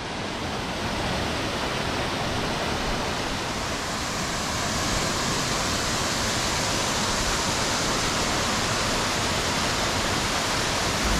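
Steady rushing roar of the Triberg waterfall, cascading water with no break, fading in at the start.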